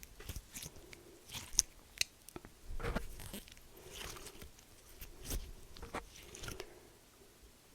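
Close-miked crunching and crackling: irregular crisp crunches and sharp clicks, a few seconds apart, with the loudest near the start and about a third of the way in.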